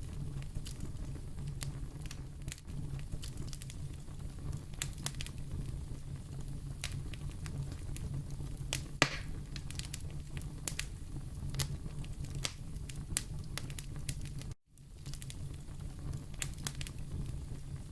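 Wood fire in a fireplace crackling: frequent sharp pops and snaps over a steady low rumble, with one louder pop about nine seconds in. The sound cuts out for an instant near the end.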